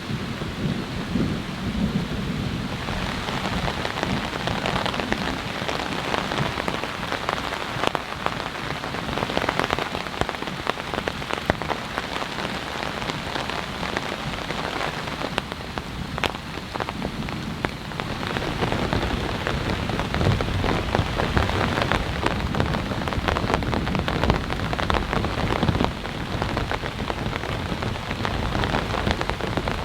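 Heavy rain falling steadily, with many close drop hits on a surface. Low thunder rumbles near the start and again through the second half.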